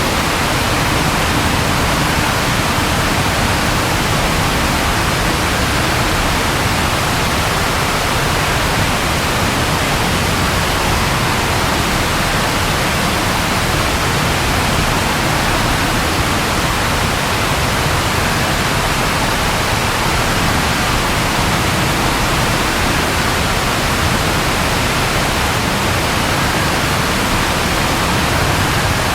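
Steady rain falling, an even unbroken rush with no thunder.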